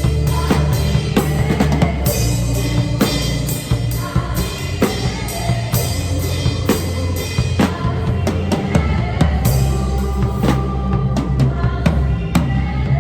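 Acoustic drum kit played live along to a worship song's backing track: bass drum, snare and cymbal strikes in a steady beat over sustained bass notes, picked up by a phone's microphone as room sound.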